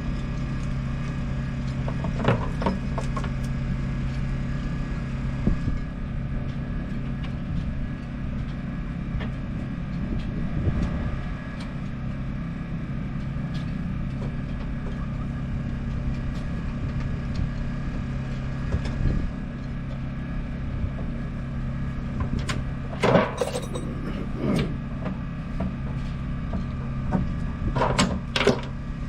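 A motor running steadily with a low, even hum, and a few short clanks and rattles of hard objects being handled: one about two seconds in, and a cluster near the end.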